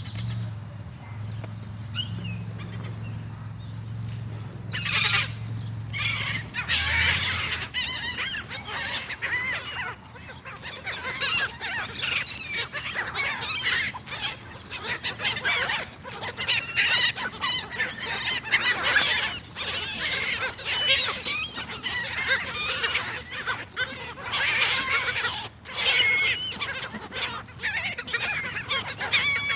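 A flock of seagulls squawking and calling over one another. The calls are sparse at first, then thick and overlapping from about five seconds in.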